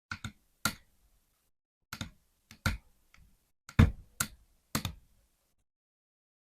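Toy truck being handled: about a dozen sharp, irregular clicks and knocks, the loudest a little before four seconds in.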